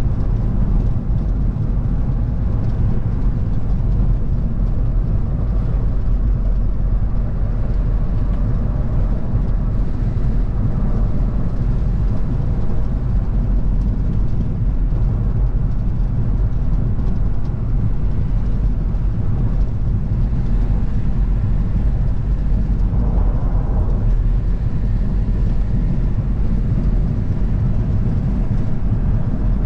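A car driving at a steady speed: a continuous low rumble of engine and tyre-on-road noise. A brief swell of higher noise comes about three-quarters of the way through.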